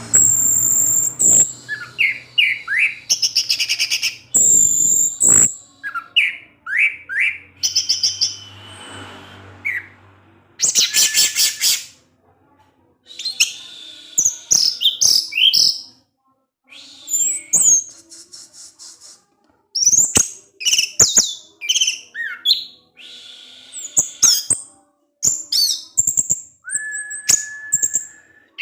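Orange-headed thrush (anis merah) singing a fast, varied song of quick chips, rapid trills and short whistles, phrase after phrase with brief pauses between. Near the end it holds one steady whistle. This is the continuous 'teler' song of the kind played as a lure to get a quiet bird singing.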